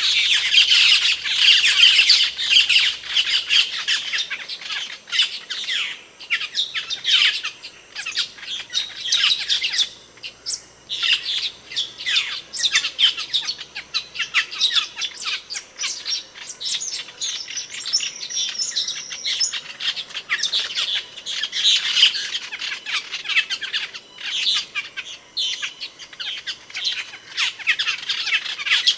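Asian glossy starling calling: a rapid, continuous string of sharp, high chirps and squawks, packed most densely in the first few seconds.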